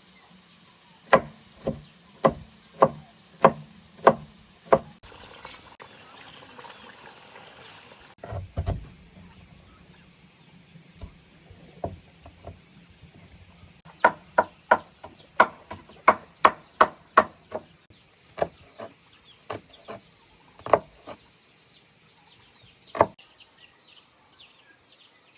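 Repeated chopping blows, a blade striking a wooden block: a steady run of about seven strokes, then a faster run of about ten, then a few single strokes. Faint chirping of birds near the end.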